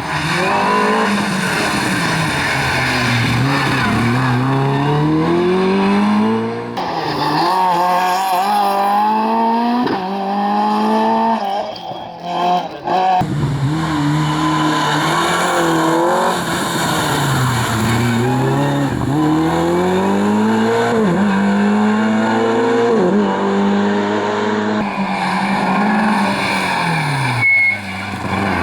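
Rally car engines at full attack, the pitch climbing through each gear and dropping at the shifts, with falling revs on the downshifts. Several short runs are joined together, so the sound changes abruptly a few times.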